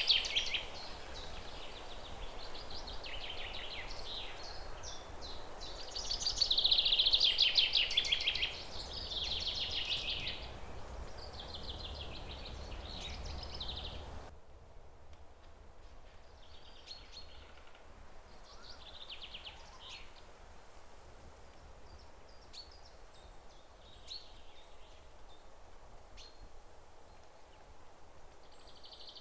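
Songbirds singing trilled, repeated phrases over a steady background hiss. About halfway through, the hiss drops off suddenly and the birdsong goes on fainter and more sparse.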